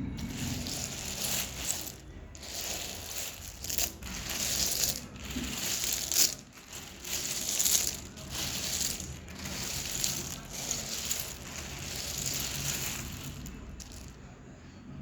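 Lumps of dry edible clay crumbling and crunching in a run of rough, crackly crunches, with a couple of sharper, louder cracks around the middle, dying away just before the end.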